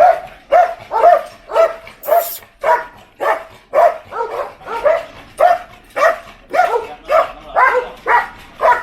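A dog barking steadily and repeatedly, about two barks a second.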